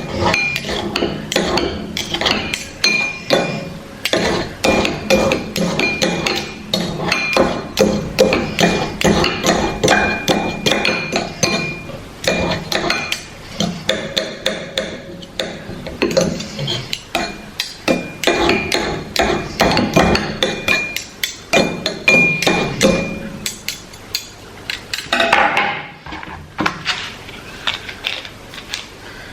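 A rapid run of sharp knocks and taps from a hard object striking a hard surface, several a second, with short pauses about halfway through and near the end.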